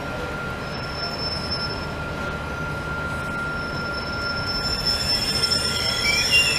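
Network Rail test train's coaches rolling slowly along the platform as the train comes in to stop, over a low rumble. A steady high squeal from the wheels and brakes runs throughout, and more squeals that shift in pitch join near the end.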